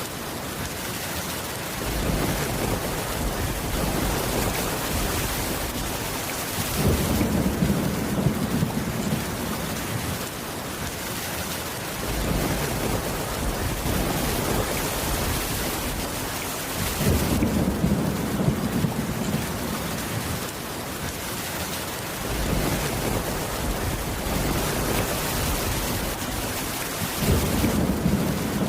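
Steady heavy rain with low rolls of thunder swelling up and fading every few seconds.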